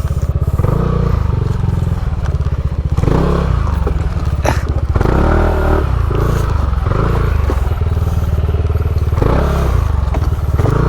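Motorcycle engine running at low speed, its revs rising and falling, with rattles and knocks from the bike, a sharp knock about four and a half seconds in.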